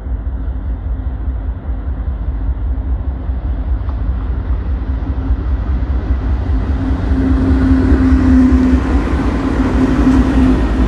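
Freight train's diesel locomotive approaching: a low rumble with a steady engine drone, growing louder.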